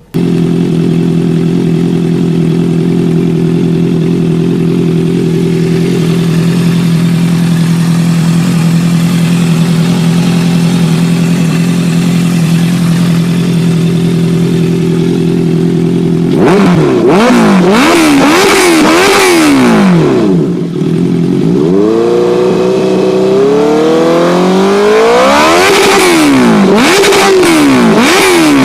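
Honda CBR650F inline-four engine through an aftermarket exhaust, idling steadily for about sixteen seconds, then revved in quick repeated throttle blips. It drops back briefly, climbs in one long rev to high rpm, and is blipped again near the end.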